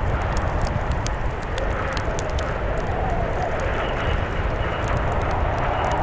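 Blizzard wind blowing hard, a steady low rumble with a wavering howl, over the light crackle of a wood fire.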